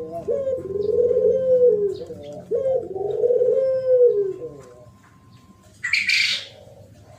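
Spotted dove cooing: three phrases of low, wavering coos one after another, ending about five seconds in. About six seconds in there is a brief hissing burst.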